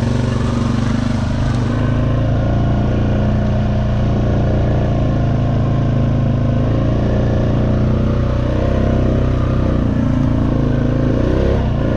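Honda Rancher 420 ATV's single-cylinder four-stroke engine running at a steady, gentle throttle while riding, held easy to keep the tyres from spinning.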